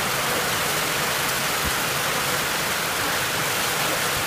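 Heavy rain pouring onto a flat concrete rooftop: a steady hiss of drops splashing on wet, puddled concrete.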